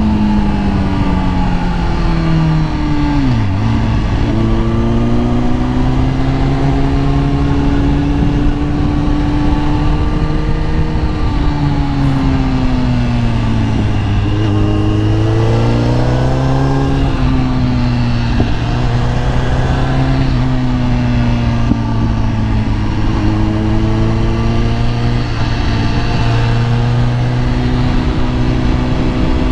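Kawasaki ZX-10R's inline-four engine running under way at moderate revs: the pitch falls over the first few seconds, holds steady, dips and climbs again around the middle, then settles into a steady cruise.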